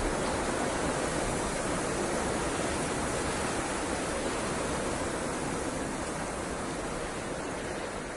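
A steady, even rushing noise with no distinct events, fading out near the end.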